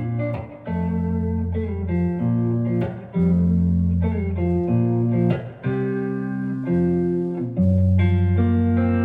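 Rock band playing the instrumental ending of a song, without vocals. Guitar and bass chords are held about a second each, changing in a steady progression.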